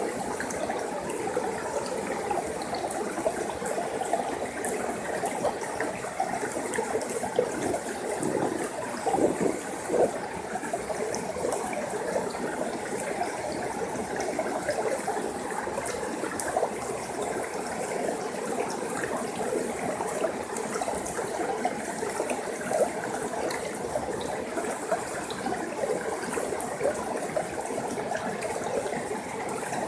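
A forest stream flowing and trickling steadily over rocks, a continuous babble of water.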